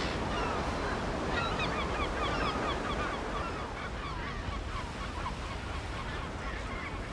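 A chorus of seabirds calling over one another in many short, overlapping calls, over a steady low rumble of wind and surf.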